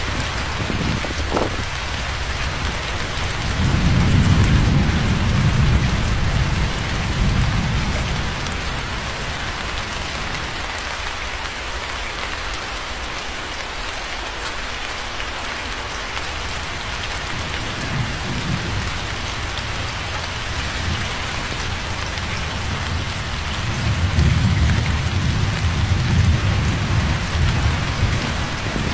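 Steady rain falling, with two low rolls of distant thunder: one starting about four seconds in and lasting several seconds, another near the end.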